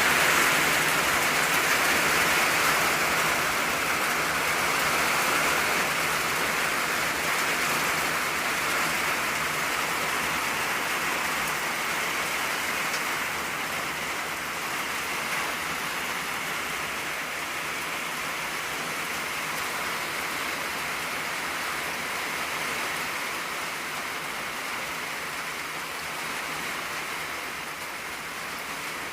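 Steady rain drumming on an old tin roof, a dense even patter that eases gradually in loudness.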